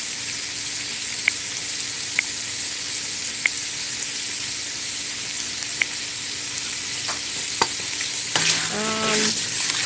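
Seasoned chicken pieces frying in a pot: a steady sizzle as they are stirred with a spatula, with a few light clicks. A voice comes in briefly near the end.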